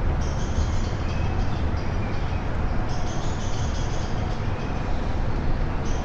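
Birds singing short high phrases in bursts over a steady low rumble and an even hiss from a rainy evening outdoors.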